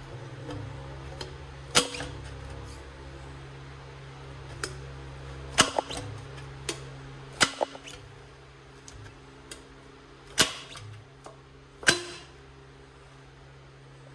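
Sharp metallic knocks and clanks from tools and fork parts being handled, about seven spread irregularly, a few in close pairs, over a steady low hum.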